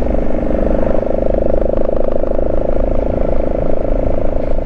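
Motorcycle engine running at a steady cruising speed, a constant drone, with wind noise rumbling underneath.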